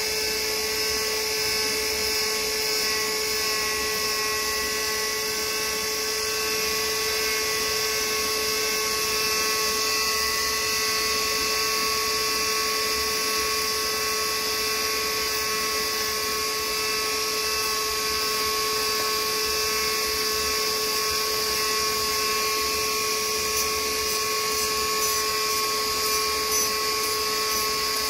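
Electric power tool running steadily at constant speed throughout, a high-pitched motor whine with a hiss over it.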